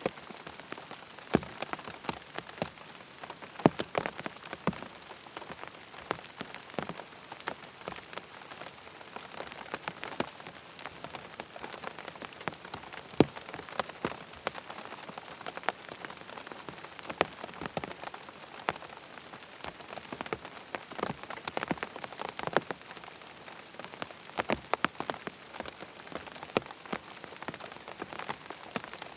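Steady rain, with many sharp drop impacts landing irregularly throughout.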